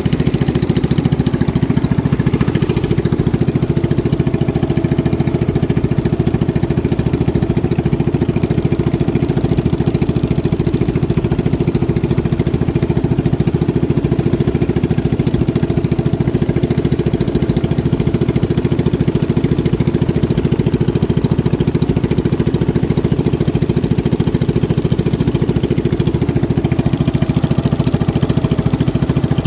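Boat engine running steadily at constant speed, loud and close, with a fast even pulsing.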